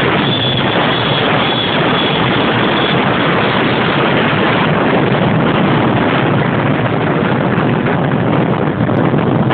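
Motorcycle running at speed, a steady loud rush of engine and wind noise on the microphone.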